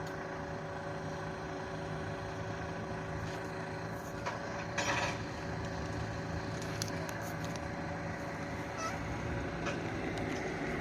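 Vehicle engine idling steadily, with a short burst of hissing noise about five seconds in.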